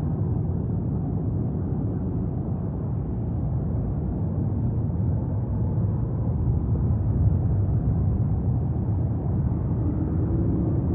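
Wind buffeting the nest camera's microphone: a steady low rumble with no distinct events.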